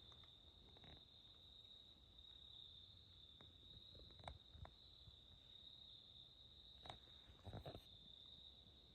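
Faint, steady high-pitched insect chorus of woodland crickets or similar insects, with a few soft clicks and rustles about four seconds in and again near the end.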